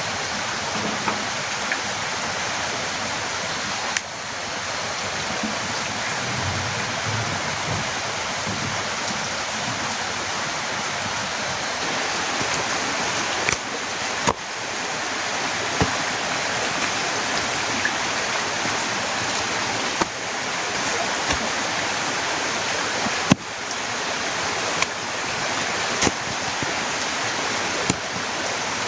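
Heavy rain pouring down as a dense, steady hiss, with scattered sharp taps of big drops. The sound drops away briefly three times and swells back each time.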